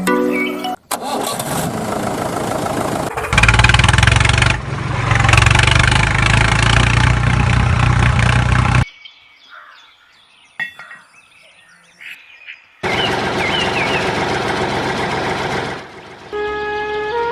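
Small diesel engine starting and running loud, in stretches cut together with a sudden drop to a faint sound in the middle. Music with steady notes comes in at the very end.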